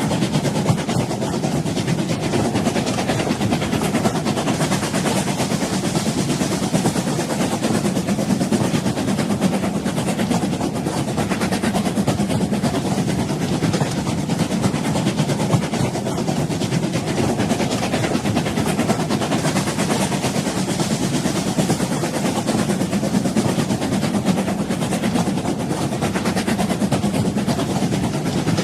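Train running steadily: a continuous, even rumble of the train moving along the rails, with no distinct rhythm.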